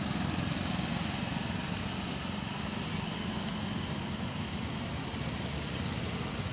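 A small engine running steadily, a low rumble.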